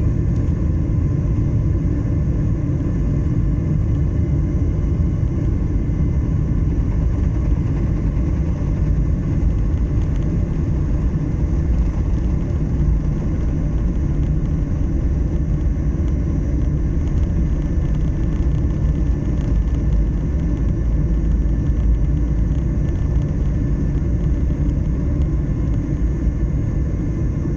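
Boeing 737-800's CFM56-7B turbofan engines at takeoff thrust, heard from inside the cabin: a loud, steady deep rumble with faint steady whining tones above it.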